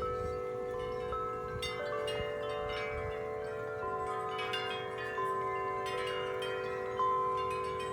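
Several large tuned metal wind chimes ringing in strong wind. Many long tones overlap and keep being struck afresh, with one louder strike about seven seconds in.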